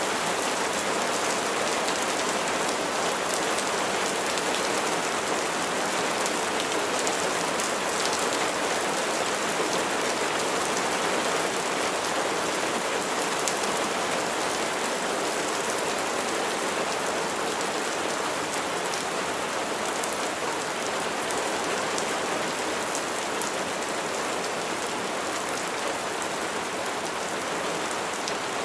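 Steady rain falling on a surface, an even hiss with faint small drop ticks, unchanging throughout.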